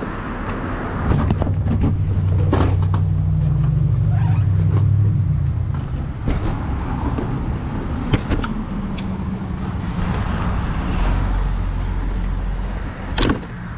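Motorcycle engine running steadily, its note swelling from about a second in and easing off a few seconds later, with a few sharp knocks.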